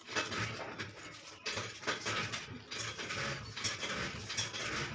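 Close-up chewing and crunching of crisp pani puri shells filled with spiced water, an irregular wet crackling.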